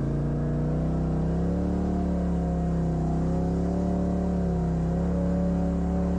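Off-road vehicle engine running at fairly steady revs, its pitch wavering slightly up and down as the throttle is held.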